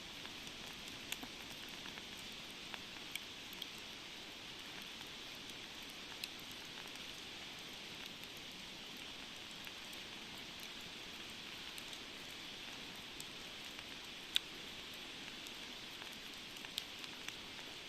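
Wood campfire burning: a steady soft hiss with scattered sharp pops and crackles, one louder pop a little after the middle.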